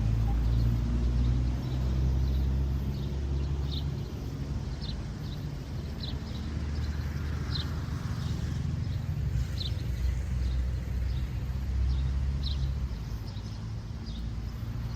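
Outdoor ambience: a steady low rumble with short, high chirps repeating about once a second.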